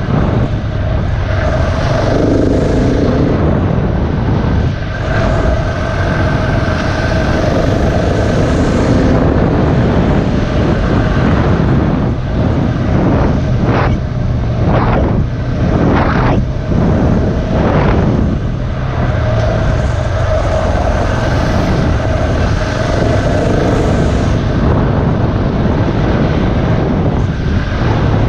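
Single-cylinder dirt bike engine running while riding, a steady engine note with several brief dips in the middle of the stretch.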